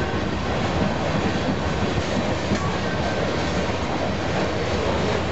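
Covered hopper cars of a freight train rolling past close by: a steady rumble of steel wheels on the rails.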